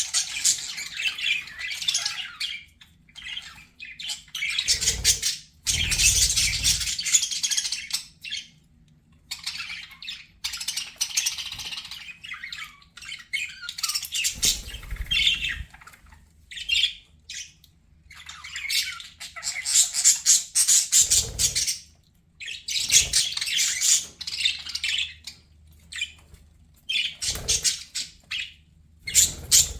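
Budgerigars chattering and warbling in bursts of fast, high-pitched chirps and squawks with short pauses between. A few dull low thuds are mixed in.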